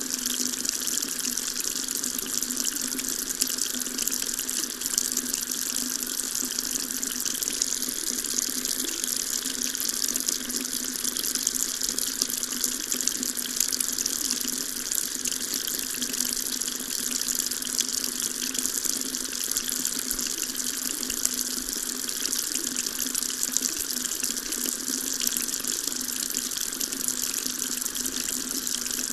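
Water tap running steadily, a continuous even splashing of water into a sink with no change throughout.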